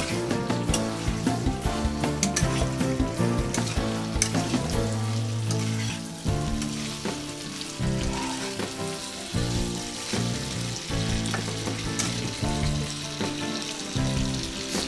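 Eggplant and potato chunks frying in oil and spice paste, sizzling steadily while a spatula stirs them. The spatula clicks and scrapes against the pan, most often in the first few seconds.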